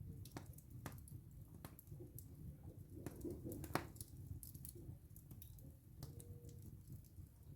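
Wood fire burning in a fireplace: a low rumble of flames with irregular sharp crackles and pops from the burning logs, the loudest pop a little under four seconds in.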